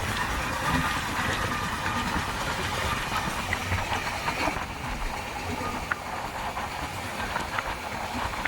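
Passenger train running along the track, a steady rumble and rushing hiss of wheels on rail with a few sharp clicks from the rail joints.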